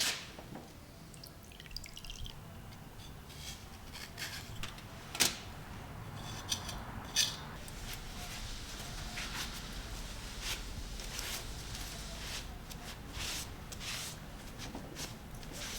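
Light workshop handling noises: scattered small clicks and taps of tools and metal parts, with one sharper click about five seconds in, over a low hum.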